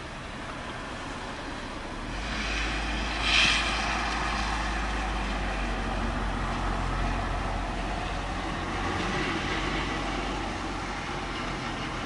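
Thunder: a deep rumble builds about two seconds in, breaks into a short sharp crack, then rolls on and slowly fades, over a steady hiss of rain or background noise.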